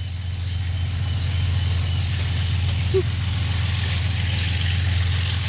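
Aurizon 2800-class diesel-electric locomotive's diesel engine running just after start-up, a steady low drone.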